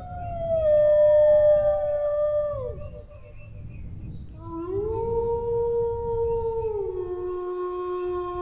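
Dog howling: a long howl that falls away and fades, then after a short gap a second long howl that rises, steps down and is held.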